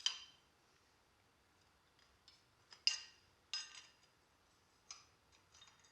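Steel door hinge parts clinking as they are handled: a handful of sharp, short metallic clinks with a brief ringing, the loudest right at the start and about three seconds in.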